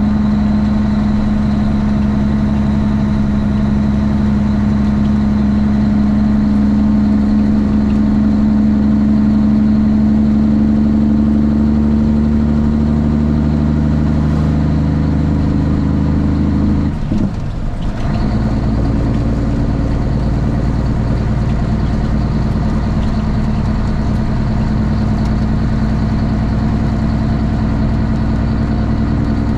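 Straight-piped Cummins ISX inline-six diesel in a Kenworth T800 truck, running steadily under way. About seventeen seconds in, the engine note breaks off briefly and picks up again at a different pitch.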